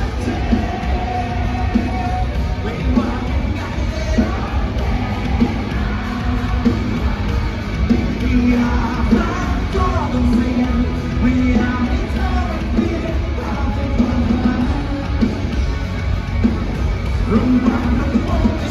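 Live rock band playing loud in an arena, with a singer over heavy bass and drums.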